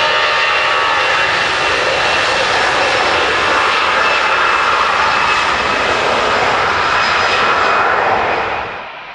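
Airbus A321-211's twin CFM56 turbofan engines at takeoff power: a steady, loud jet roar with faint whining tones in it. The level drops sharply near the end.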